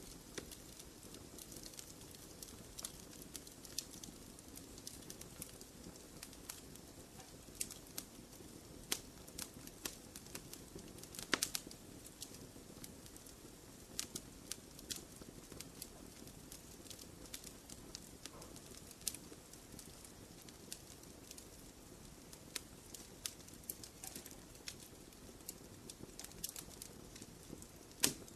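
Wood fire crackling in a fireplace: a soft low rush of flames with frequent irregular sharp pops and snaps, the loudest about eleven seconds in and near the end.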